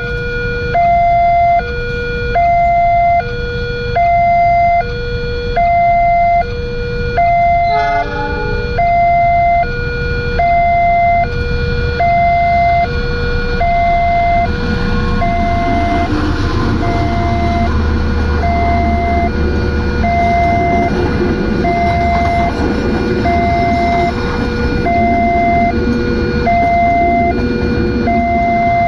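Electronic warning alarm of an Indonesian railroad level crossing, sounding two tones that alternate high and low about once a second. From about halfway through, a passing train adds a heavy rumble and a rushing noise under the alarm.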